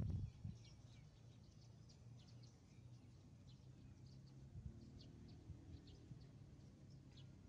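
Faint, scattered short bird chirps over a low steady hum, near silence overall, with a brief low knock right at the start.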